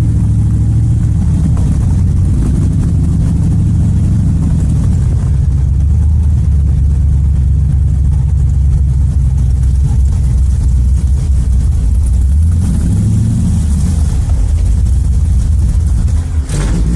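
AK Cobra replica's LS7 7.0-litre V8 running under way, a deep, steady rumble, with the revs briefly rising and falling about thirteen seconds in.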